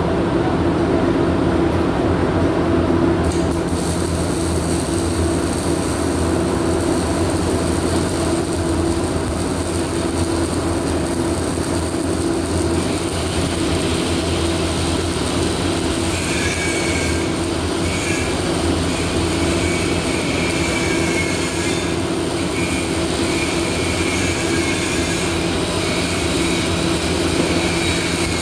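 Steady machine hum and rumble, with a hiss that comes in a few seconds in and a high whine that starts and stops from about halfway on.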